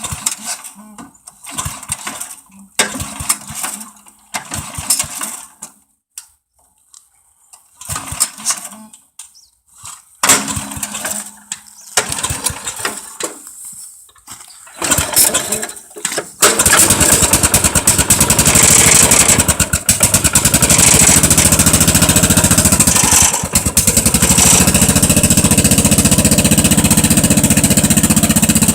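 Wheel Horse garden tractor engine on a cold start after a month unused: several short bursts of cranking with pauses between them, then about sixteen seconds in it catches and keeps running steadily.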